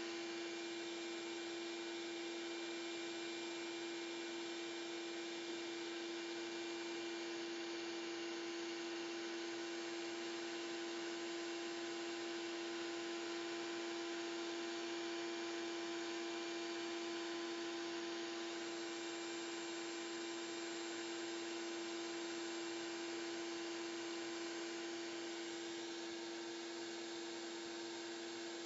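Shop vac running steadily, sucking lint out of a dryer vent: a constant motor whine over the hiss of rushing air.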